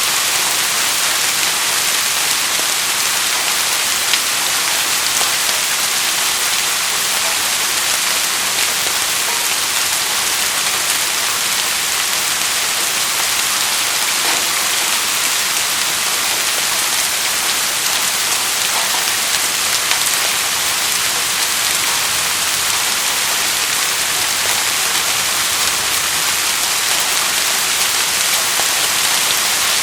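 Steady rainfall: a dense, even hiss of raindrops that holds constant without letting up.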